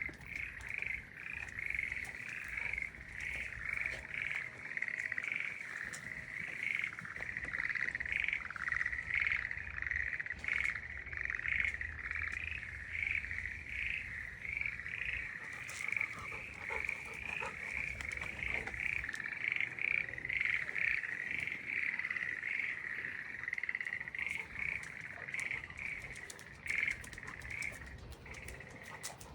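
A chorus of many frogs calling, their quick pulsed calls overlapping without a break. It is a clear, pretty sound, not the call of bullfrogs.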